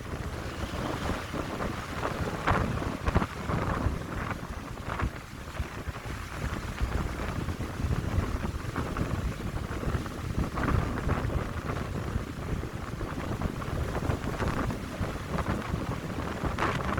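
Wind gusting through pine trees with a rushing sound that swells and falls, over a steady low rumble of wind buffeting the microphone.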